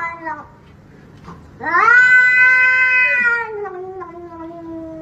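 A cat yowling: the end of one drawn-out call at the start, then about a second and a half in a second long yowl that slowly falls in pitch and trails away.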